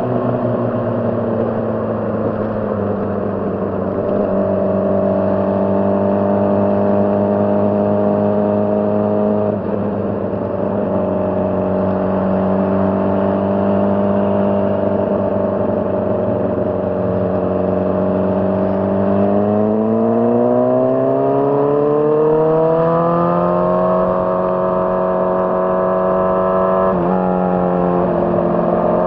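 2006 Honda CBR600RR's inline-four engine running under way at fairly steady revs. About two-thirds of the way in it revs up, its pitch rising for several seconds. Near the end there is a brief dip, as at a gear change.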